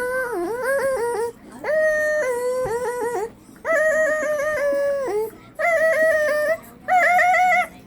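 A person making silly high-pitched warbling vocal sounds: five held notes, each wobbling quickly up and down, with short breaks between them.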